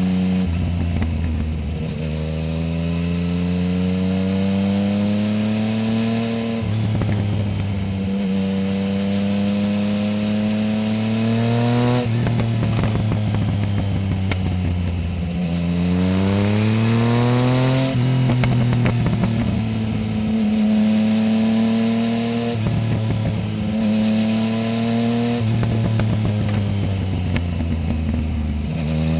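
Yamaha Tracer 900 GT's 847 cc inline-three, mapped and fitted with a full Roads Italia exhaust with the dB-killer removed, pulling hard up through the gears. The engine note climbs for a few seconds and drops at each gearshift, about eight times in succession.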